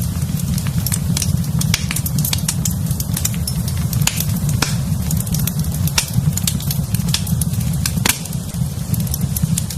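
Wood fire crackling in a fireplace: frequent sharp crackles and pops over a steady low rumble of burning.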